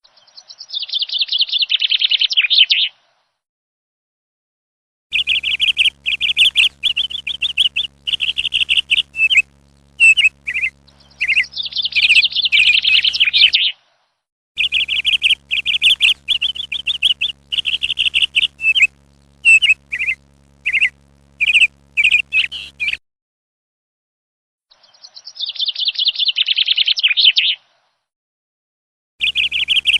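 Small birds chirping in quick trains of high chirps. They come in bursts of several seconds, broken by short stretches of silence.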